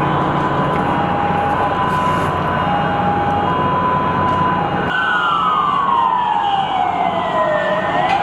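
Sirens: a two-tone siren alternating between two pitches over a low steady hum and noise, changing abruptly about five seconds in to a slow wailing siren that glides down and then back up.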